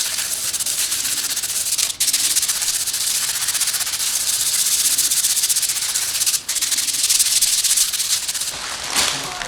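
Steady, loud hiss of stripping or cleaning work on tractor parts. It cuts out briefly about two seconds in and again past six seconds.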